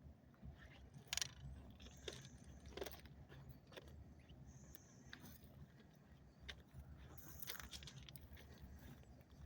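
Faint, irregular footsteps crunching and scraping on the gravel ballast of a railroad track, over a low steady rumble.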